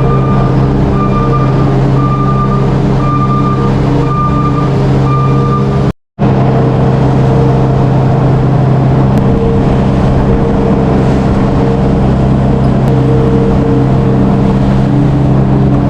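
Farm tractor or loader engine running steadily under work while scraping, with a backup alarm beeping about once a second for the first five seconds or so. The sound drops out for a split second about six seconds in, then the engine runs on.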